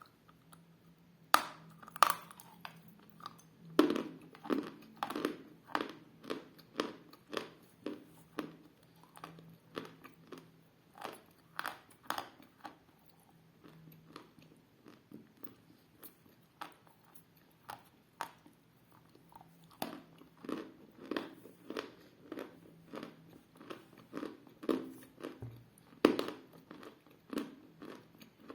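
Biting and chewing a hard, dense lump of edible clay. Loud sharp crunches come as pieces are bitten off, about a second and a half in and again near the end, with regular crunching chews in between. The crunch is ringing but short.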